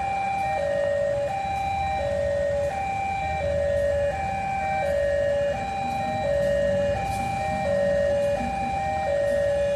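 Electronic two-tone warning alarm, a lower and a higher note alternating evenly, each held about two-thirds of a second, over a low rumble.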